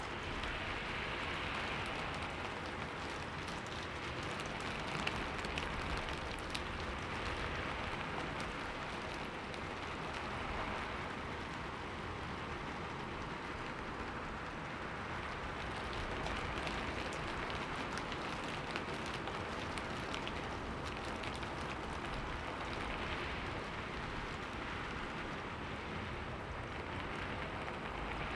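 Steady rain pattering on a window pane, with a few sharper drop taps now and then.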